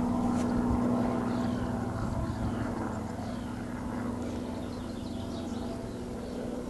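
A distant engine drones steadily and slowly fades away, with faint bird calls chirping over it.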